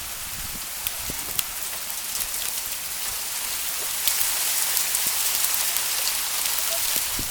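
Hail falling in a storm: a dense hiss with many sharp ticks of hailstones striking, growing louder about four seconds in.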